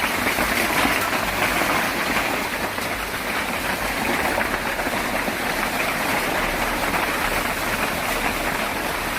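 Hailstones pelting down hard in a dense, steady clatter of many small impacts.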